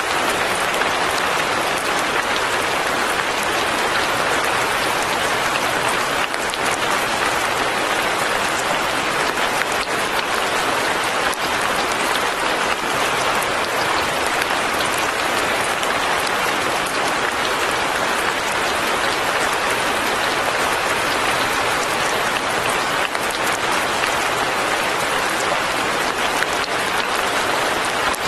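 Fine rain falling steadily: a dense, even patter of drops.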